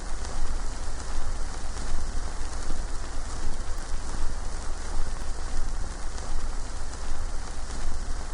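Burning charcoal campfire with a steady hiss, under a heavy low rumble of wind on the microphone that swells and eases unevenly.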